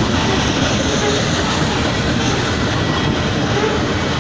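Loaded coal hopper cars of a freight train rolling past, their steel wheels on the rails making a steady, loud rolling rattle.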